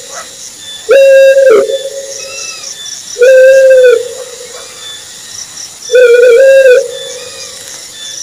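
Owl hooting: three loud, steady-pitched whistled hoots, each under a second long and about two and a half seconds apart, the third broken into two notes. A faint hiss lies underneath.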